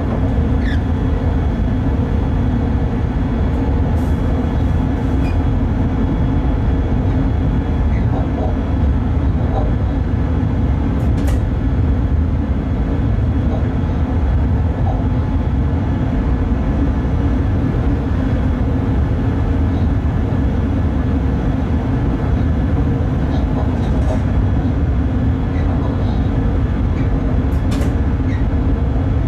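Cab noise of a Bombardier Traxx BR186 electric locomotive running along the line: a steady low rumble with a faint hum over it, and a few short clicks.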